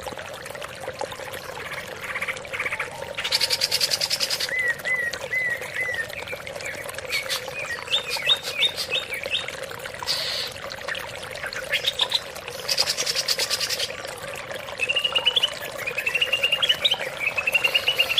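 Greater green leafbird (cucak ijo) singing: runs of short clear whistled notes and slurred chirps, broken twice by a rapid buzzy trill, over a steady trickle of running water.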